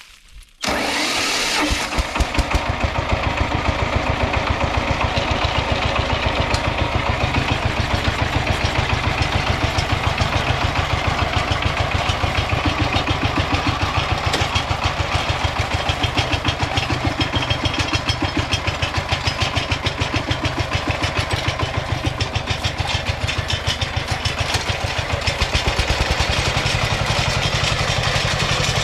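Kentavr MB 1010DE-6 walk-behind tractor's diesel engine catching about half a second in, then running steadily with a rapid chugging beat. Its tone deepens near the end.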